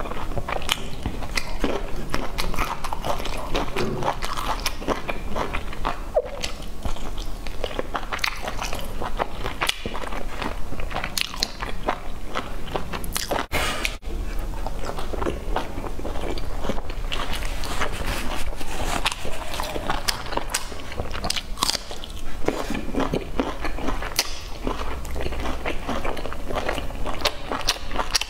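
Close-miked eating sounds: a person biting into and chewing soft dumplings dipped in sauce, with a continual stream of small mouth clicks and smacks.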